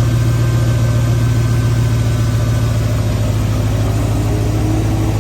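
Ford 351 Windsor V8 idling steadily with an even low pulse, during its initial tune-up after cam break-in. A faint higher tone rises in during the last second or two.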